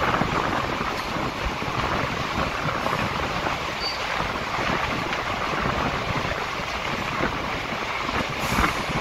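Train running at speed through a tunnel: a steady rushing noise of wheels on rail and moving air, heard from the coach doorway.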